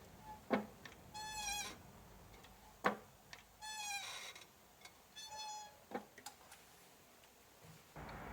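Mitsubishi Jeep clutch pedal linkage squeaking as the pedal is worked: three short, wavering high-pitched squeaks, with a sharp click between them. The squeak is the abnormal noise from the clutch and brake pedal arm linkage.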